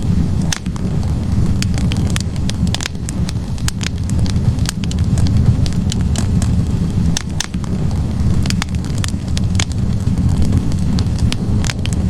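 Wood fire burning in a fireplace: a steady low roar of the flames with frequent, irregular sharp crackles and pops from the logs.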